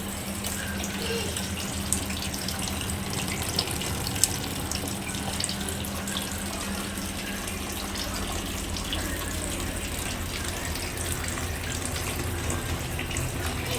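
Water running and splashing steadily down a small homemade cement fountain, with a steady low hum under it.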